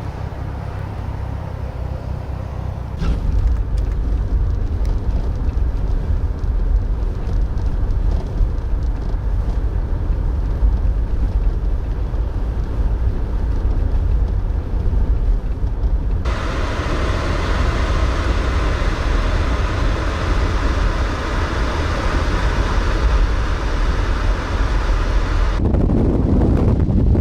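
Steady low rumble of vehicles running in a snowstorm, with wind noise on the microphone; the sound changes abruptly about three, sixteen and twenty-five seconds in, where the shots are cut.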